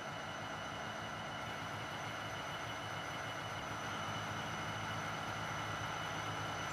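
Diesel freight locomotives approaching, led by a CSX SD70M, a steady low engine rumble that grows slowly louder.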